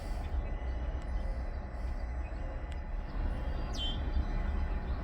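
Low, steady outdoor rumble, with one short descending bird chirp about four seconds in.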